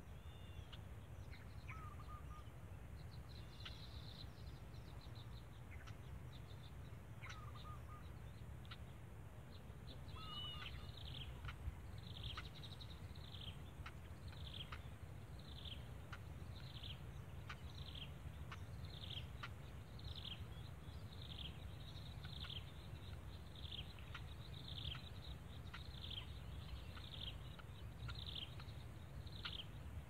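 Bird calls over a steady low rumble: a few scattered chirps at first, then, from about a third of the way in, a run of short falling chirps repeated a little more than once a second.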